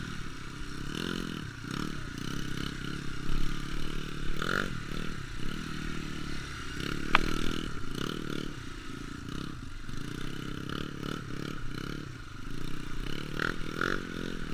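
Trail motorcycle engine revved in repeated bursts, rising and falling in pitch, with scraping and clatter and one sharp click about seven seconds in.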